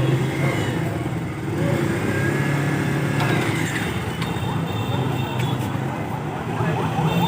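Motorcycle engine running steadily while riding, with wind noise.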